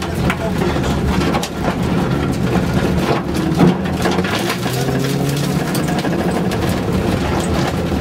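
Car engine heard from inside the cabin, driven hard on a loose dirt track, its revs rising and falling, with scattered knocks and clatter from the rough surface under the wheels.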